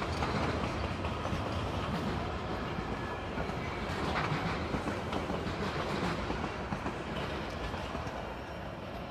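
Work train of flatcars carrying track-maintenance machines rolling past: steel wheels clacking and rumbling on the rails, starting to fade near the end as the last car goes by.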